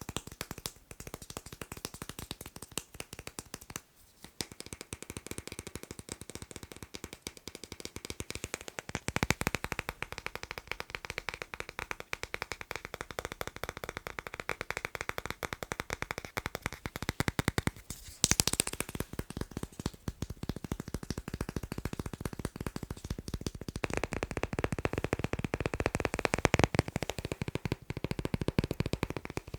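Fast tapping on magnets: a dense run of quick clicks, many a second. The tapping changes character about a third of the way in, again just past halfway, and once more near the end.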